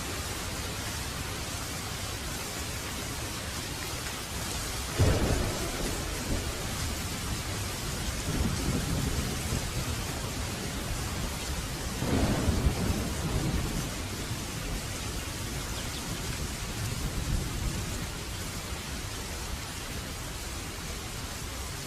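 Heavy rain falling steadily with thunder: a sharp thunderclap about five seconds in and a second rolling peal about twelve seconds in, each trailing off in low rumbling.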